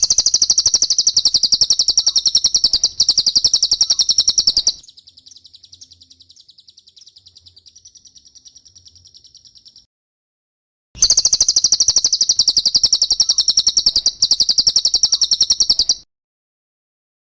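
Cililin bird song: a loud, very fast high-pitched trill for about five seconds, then a fainter trill, a short pause, and a second loud trill that stops near the end.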